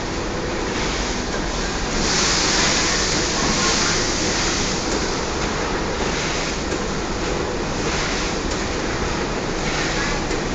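Automatic feed-packing machine running: a steady, loud rushing noise with a louder hiss about two seconds in.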